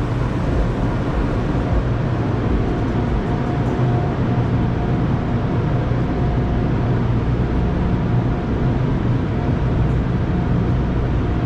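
Steady rumble and hiss of a car heard from inside the cabin, with no sudden events.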